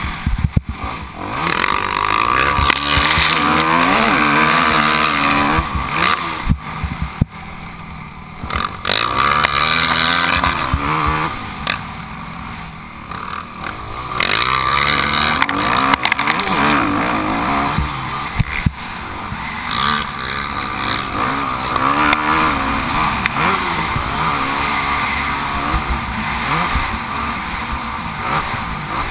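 Motocross bike engine revving high and falling back again and again as the bike accelerates and backs off around a track, over a steady rushing noise.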